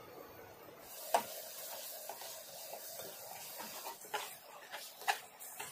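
Chicken curry sizzling in a cooking pan, the hiss starting about a second in, with a spoon stirring and knocking against the pan a few times.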